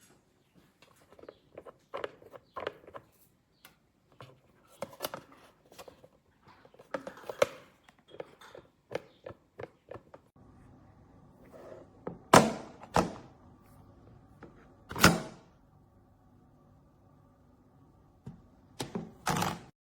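Plastic food storage containers being handled: a run of light clicks and knocks, then several louder thunks as they are set down or their lids snapped on, over a faint steady hum from about halfway through.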